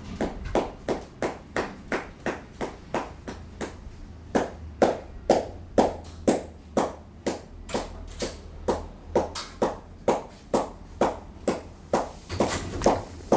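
Footsteps of someone walking at a steady, even pace, about two steps a second.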